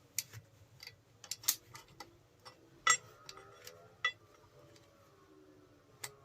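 Irregular clicks and light metallic knocks from hand tools working at a stuck part on a grinder, the loudest about three seconds in.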